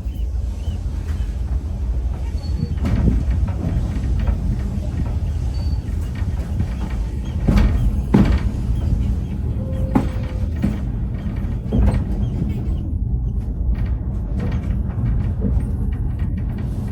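Vintage train running along the track: a steady low rumble with scattered knocks and rattles, the loudest about 8 seconds in.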